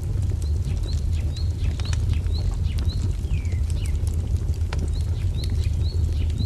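Crackling fire with a steady low rumble and sharp pops, mixed with a small bird chirping short rising notes about twice a second, with a couple of downward-slurred notes in the middle.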